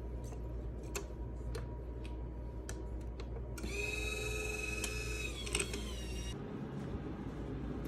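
A few sharp clicks, then a small electric machine whirring with a steady whine for nearly three seconds that bends in pitch and cuts off.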